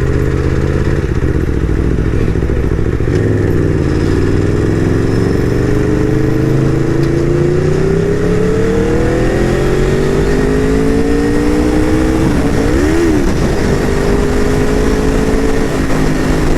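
Aprilia RSV4 RF's V4 engine pulling while riding, its pitch climbing slowly for several seconds, with a brief rise and fall about two-thirds of the way through and a drop in pitch near the end as it shifts up a gear.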